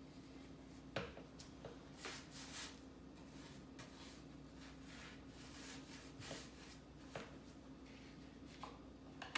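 Light handling noises: a few small knocks and clicks, and short rubbing or scraping sounds, over a steady low hum.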